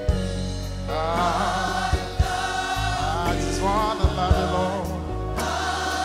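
Live gospel worship music: a choir of singers holding long sung lines over a band with bass and drum hits.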